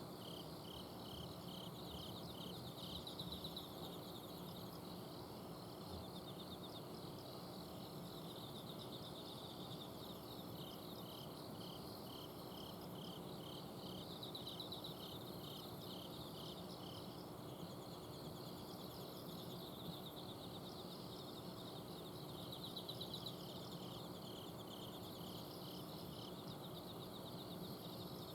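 Autumn crickets and other insects chirping: a steady pulsed chirp about three times a second, with higher buzzing trills coming and going. Beneath them runs the steady low hum of an air conditioner's outdoor unit.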